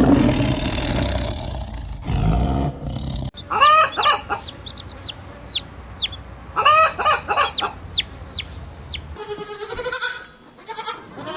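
A rooster crowing twice, with short high falling chirps between the crows. A big cat's roar dies away before the crows, and a goat starts bleating near the end.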